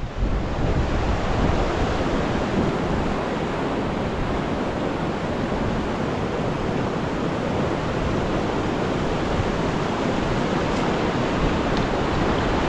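Steady, loud rushing of a mountain waterfall, an even unbroken noise.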